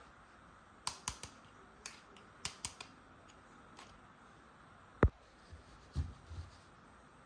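Small hard parts of a toy tool set being handled: a run of sharp clicks and taps, then one louder knock about five seconds in, followed by a few soft thumps.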